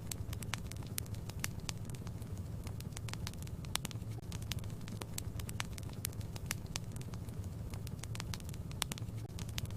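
Fire in a fireplace crackling: a steady low rumble of flames with frequent, irregular sharp pops and snaps.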